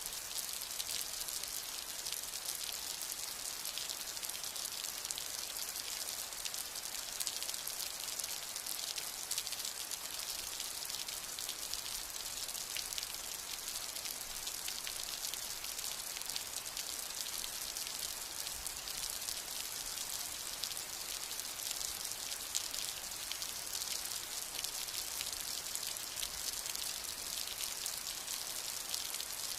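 Steady rain: an even hiss of many small drop ticks, with no thunder.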